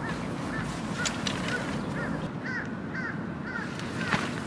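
A bird gives short chirping calls over and over, a few each second. Under them the nylon and frame of a one-touch pop-up tent rustle and click as it is pulled open, with a sharper click about a second in and another near the end.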